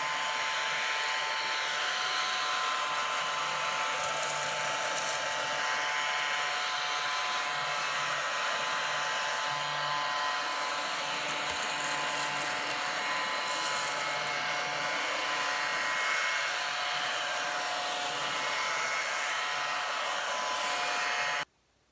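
Crumby battery-powered mini vacuum's small motor running steadily with a high whine as it sucks up spilled sugar, then switched off abruptly near the end.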